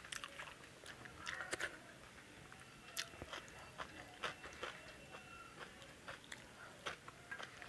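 Close-up eating sounds: quiet chewing with many short, irregular wet mouth clicks and smacks as a mouthful of curry-soaked food eaten by hand is chewed.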